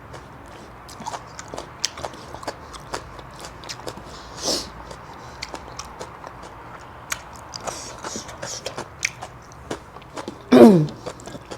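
Close-miked chewing and biting of food, with many small crunchy clicks. Twice there is a short vocal sound falling in pitch: a faint one about halfway through and a louder one near the end.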